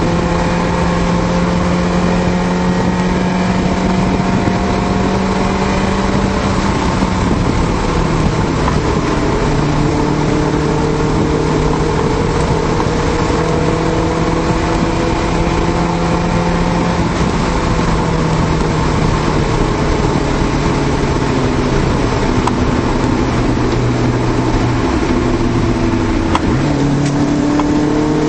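A 1991 Honda Civic hatchback's four-cylinder engine pulling the car along, heard from inside the cabin over steady road and tyre noise. The engine note drops a few seconds in, wanders up and down, dips near the end and then climbs again as the revs change.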